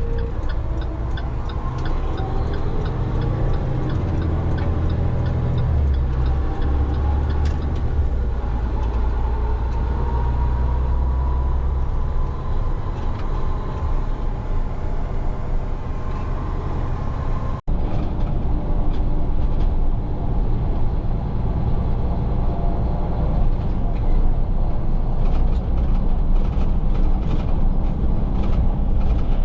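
Heavy roll-off truck driving, its engine and road noise heard from inside the cab as a steady low rumble. A whine climbs slowly in pitch for several seconds, and the sound drops out for an instant about two-thirds of the way through.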